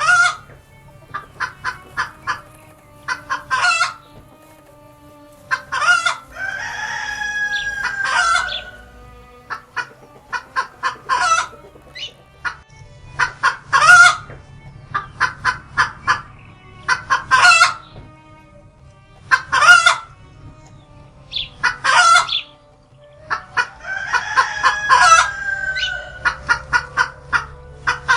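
Chicken clucking in quick runs of short loud calls every couple of seconds, with two long drawn-out crows, about six seconds in and again about twenty-four seconds in.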